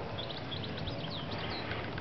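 Small birds chirping in many quick, short notes over a steady low rumble.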